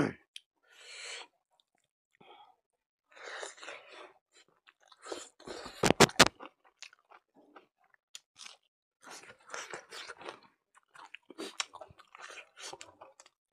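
Close-up mouth sounds of a person eating buffalo innards curry and rice by hand: irregular wet chewing and crunching with short pauses, loudest at a sharp burst about six seconds in.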